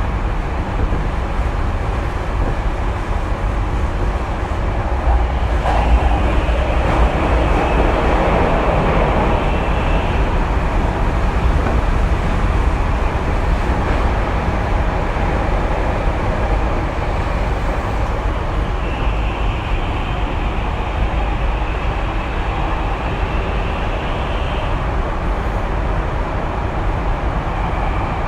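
Tokyu 2020 series electric train running, heard from inside the car: a steady loud rumble of wheels on rail. A faint high motor tone rises in twice, around 5 to 10 seconds and again around 19 to 25 seconds.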